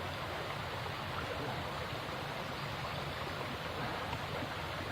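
Steady rushing outdoor noise, even throughout, with no distinct knocks, engine or voices.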